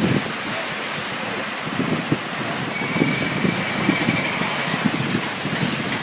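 Steady rushing noise of wind and open water, with gusts buffeting the microphone in irregular low thumps.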